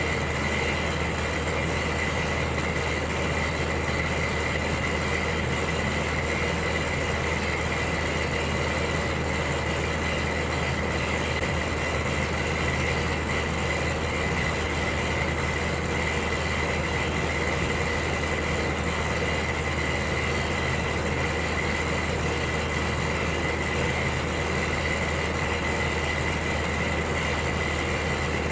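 Electric heater running steadily: an even rushing noise with a low hum underneath and a faint high steady whine.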